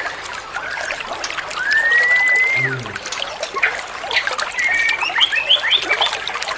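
A songbird's clear whistled call: one long whistle that slides up and holds level, then a quick run of short rising notes, over a steady trickle of running water.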